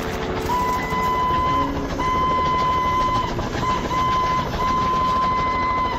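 Cartoon train whistle sounding in a series of blasts on one steady pitch, about five of them, most about a second long with one short toot in the middle, over a fast low clatter.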